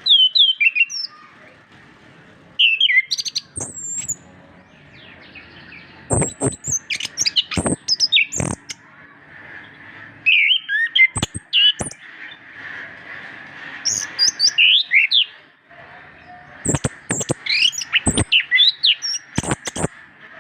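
Orange-headed thrush singing: about six bursts of rapid, varied, sweeping whistles mixed with sharp clicks, with short pauses between them, over a faint steady hiss.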